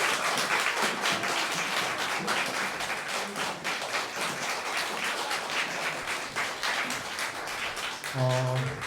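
Audience applauding steadily, many hands clapping at once, as a concert ends. Near the end a voice begins to speak over the clapping.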